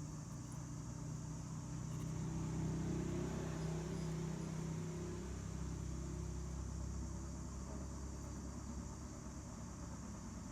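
Low engine hum that swells and then drops in pitch about halfway through before slowly fading.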